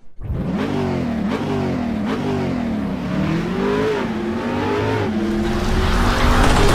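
Car engine revving, its pitch rising and falling over and over as the throttle is worked, with a rushing hiss building near the end.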